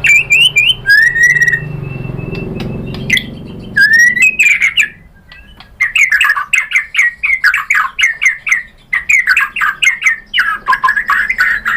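White-rumped shama (murai batu) singing: rising whistled notes in the first few seconds, then, after a short pause about halfway, a long run of rapid chattering notes.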